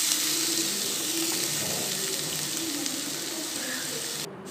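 Chopped drumstick flesh and coconut paste sizzling in hot coconut oil in a frying pan as it is added and stirred with a wooden spatula: a steady hiss that slowly eases and breaks off briefly near the end.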